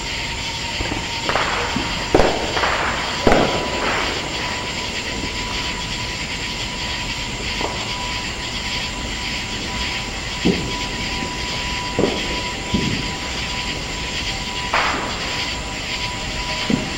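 Fireworks going off: a handful of sharp bangs at irregular intervals, the loudest a few seconds in, over a steady background noise.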